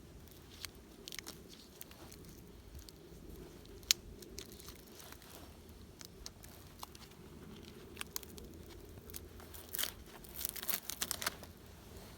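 Irregular light crunches and crackles of dry material being handled, with one sharp click about four seconds in and a quick run of crackles near the end.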